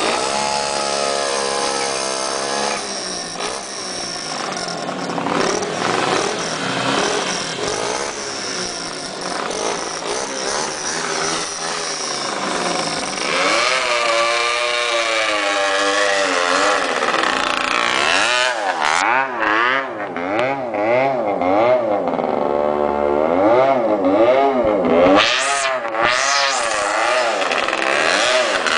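Motorcycle engines revving, their pitch rising and falling again and again as the throttle is opened and eased off, with more than one engine heard at once in the second half.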